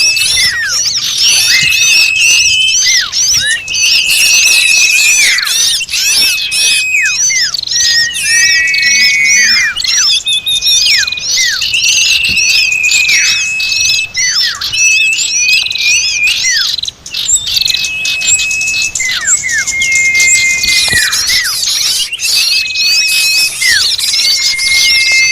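Bird-lure recording of many small birds calling at once: a dense, noisy chatter of high chirps, over which whistled notes repeatedly hold a pitch for a moment and then drop away.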